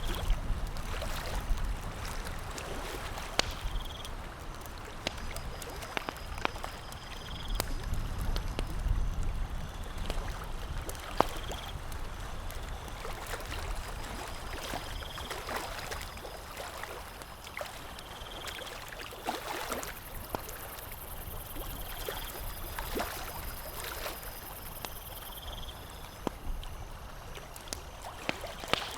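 Campfire crackling with scattered sharp pops over a steady wash of lapping lake water. A short high chirp repeats about every three to four seconds.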